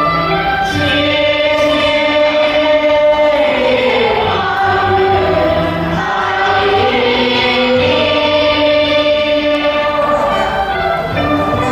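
Music led by choral voices holding long notes, with some notes sliding in pitch.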